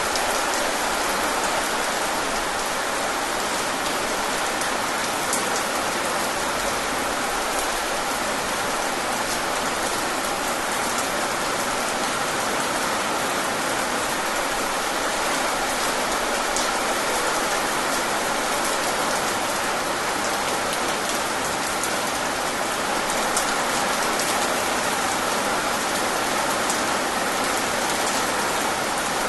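Steady rain falling, a continuous hiss with fine scattered drop ticks.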